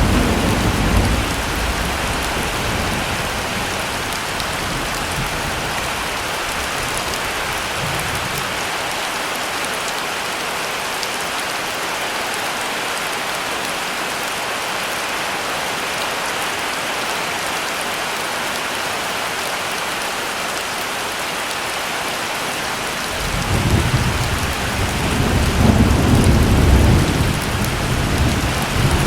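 Heavy rain falling steadily, a dense even hiss. A low rumble of thunder fades away in the first couple of seconds, and another rolls in about six seconds before the end and builds.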